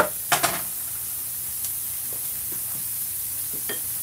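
Onions sizzling in hot oil in a frying pan: a steady frying hiss, with a brief double knock about half a second in.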